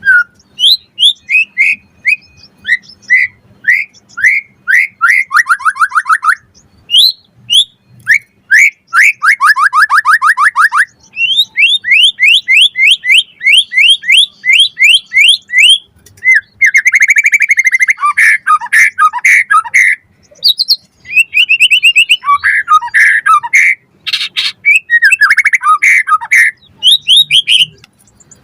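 White-rumped shama singing a long, varied song. Phrases of rapid short rising notes alternate with clear whistles and harsh buzzy rattles, separated by brief pauses.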